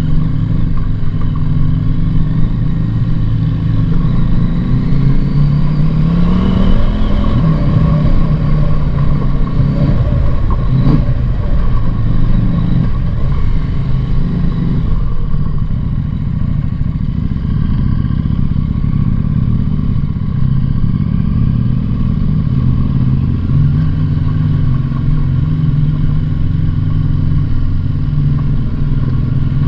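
Motorcycle engine running while riding, its pitch climbing around six seconds in and settling back again a few seconds later.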